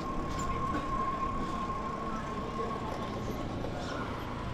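Wind and road rumble on the microphone while riding a bicycle, with a single steady high tone held for about three and a half seconds before it fades.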